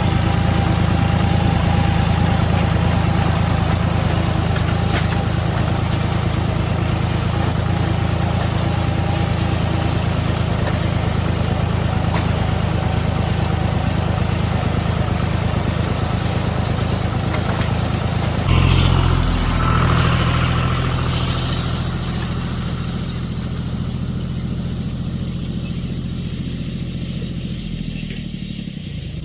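Tractor engine running steadily. About two-thirds through the note shifts abruptly to a deeper one, and near the end the engine note drops as it slows.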